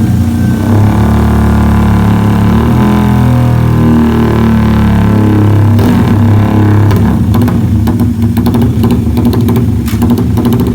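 Modified motorcycle engine running on a dyno through an aftermarket left-side Pekajaman muffler, loud throughout. The pitch climbs as it revs up around the middle, then drops back to a lower, rougher note with a rapid crackle.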